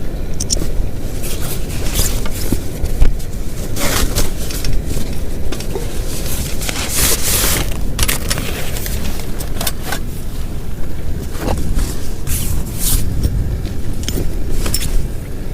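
Heavy rain on a plastic tarp: a loud, steady low rumble of rain with irregular sharp crackling spatters on the sheet.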